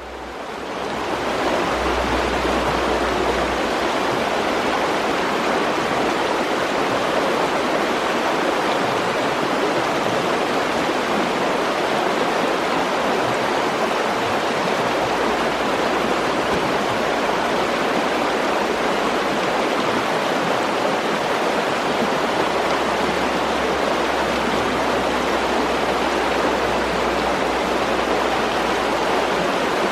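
Mountain stream flowing: a steady rush of running water that fades in over the first second.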